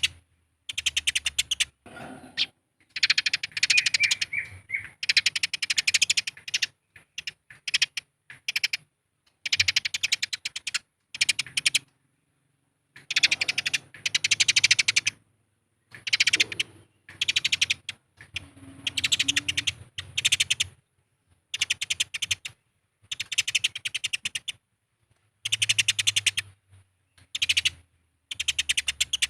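Eurasian tree sparrows' fighting chatter: rapid, harsh chirping in repeated bursts of a second or two, with short silences between them.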